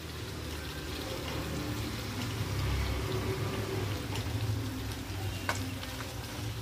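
Chopped onions, tomatoes and green chillies sizzling steadily in hot oil in a pan as they roast, with a light click near the end.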